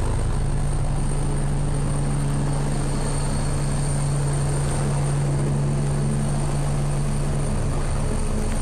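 Helikopter 15, the Swedish military Agusta A109 helicopter, running steadily: a low, even rotor beat with a thin high turbine whine over it.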